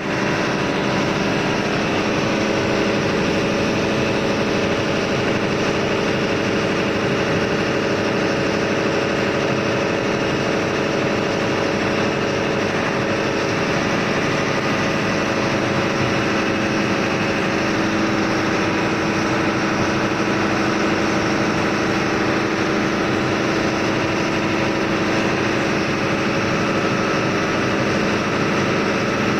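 Ship's engine running steadily in the engine room: a loud, even noise with steady humming tones, unchanging throughout.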